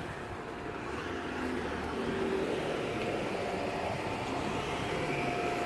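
Outdoor air-conditioner condensing units running: a steady fan whoosh, with a faint steady hum coming in about halfway through.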